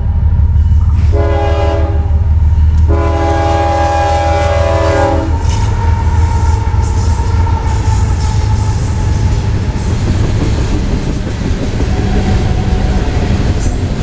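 Freight train's diesel locomotive sounding its air horn, several tones at once, at a grade crossing: a short blast about a second in, then a long blast ending about five seconds in, over the heavy rumble of the locomotive. Then boxcars, among them refrigerated boxcars, roll past with rumbling, clacking wheels.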